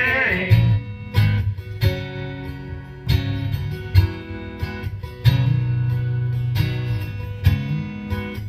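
Acoustic guitar strumming chords of a country song, single strokes that are left to ring and fade between them, as an instrumental ending after the vocals.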